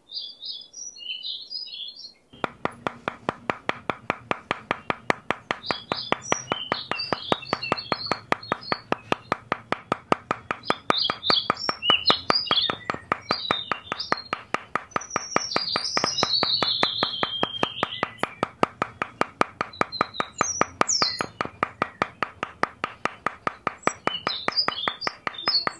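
Small birds chirping in short high calls. From about two seconds in they are joined by a fast, even ticking over a steady hum.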